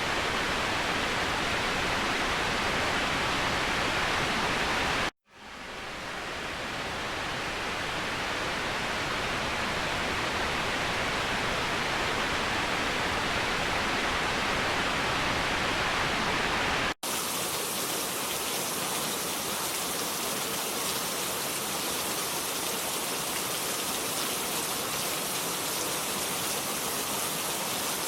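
Waterfall, a steady rush of falling water. It cuts out for a moment about five seconds in and swells back. Two-thirds of the way through it switches abruptly to a thinner, hissier rush with less low rumble.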